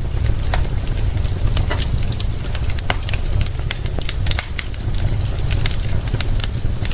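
Wood fire crackling with many sharp pops, over a steady low rumble and a hiss of rain.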